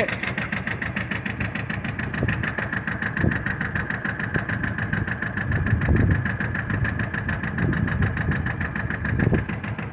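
John Deere 650 compact tractor's diesel engine running steadily, with a steady high whine over the engine note.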